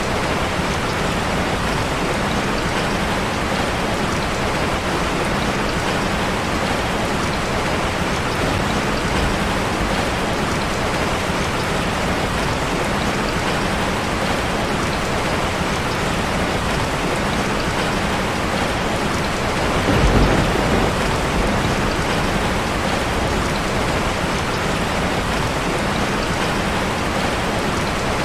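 Steady rain drumming on a metal roof, with a brief louder low rumble about two-thirds of the way through.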